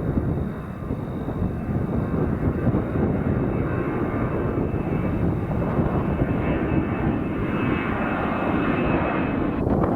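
Jet airliner's engines running, a steady broad rumble with a thin high whine that strengthens through the middle of the passage.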